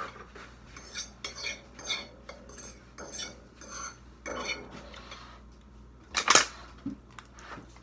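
Cutlery and dishes clinking and clattering in a run of short knocks, with one louder clatter about six seconds in.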